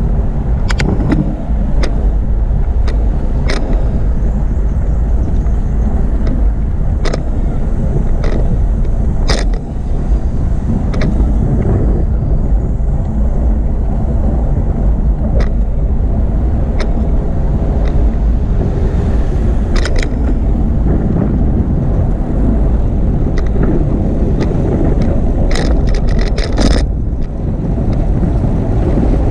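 Steady low wind rumble on the microphone while riding a bicycle, with scattered sharp clicks and rattles from the bike and a quick run of them near the end.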